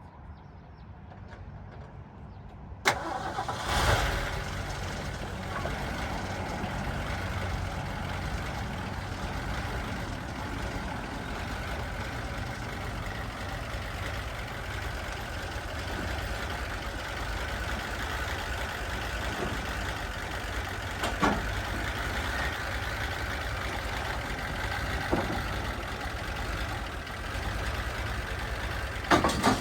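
Old truck engine starting about three seconds in, then running steadily, with a few short sharp knocks later on.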